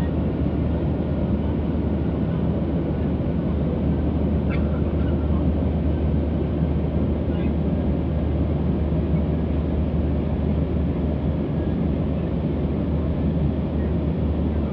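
Steady cabin noise inside a Boeing 737 in its climb after takeoff: the drone of the jet engines and the rush of air past the fuselage, heaviest in the low end.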